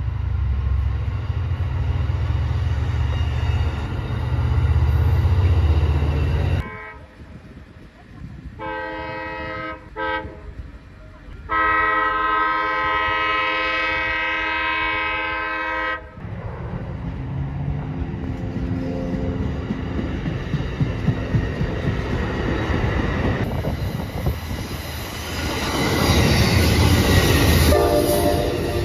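Train sounds cut together. First a train's low rumble, then after an abrupt cut a train air horn sounding a short blast and then a long blast of several tones. After another cut, a train passing with rumble and wheel clatter.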